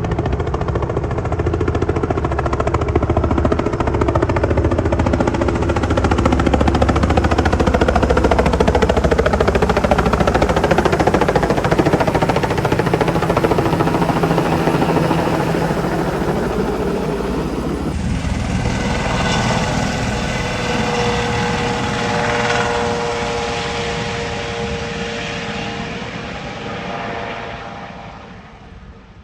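Helicopter turbine and rotor noise, loud and steady. After an abrupt change about two-thirds of the way in, a quieter high turbine whine with a few steady tones fades away near the end.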